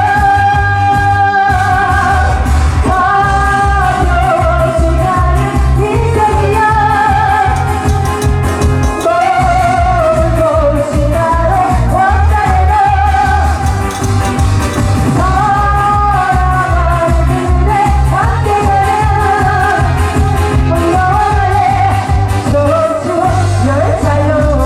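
A woman singing a Korean pop-style song into a loud amplified PA, over a backing track with a steady bass beat.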